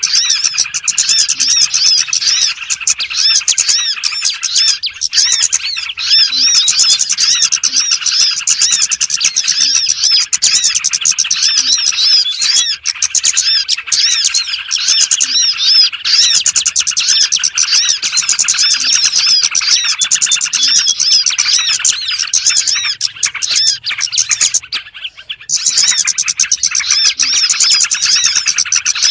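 Dense, continuous chorus of small birds chirping rapidly and overlapping, a lure call (suara pikat) used to draw small birds in. It breaks off for a moment near the end.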